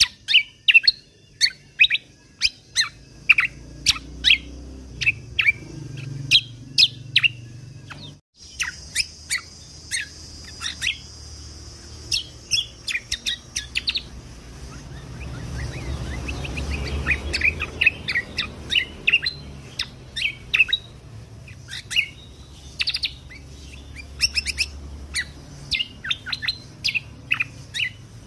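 Cucak kombo (kecial kombok) songbird singing a rapid string of short, sharp chirps and whistled notes, several a second, with a brief break about eight seconds in.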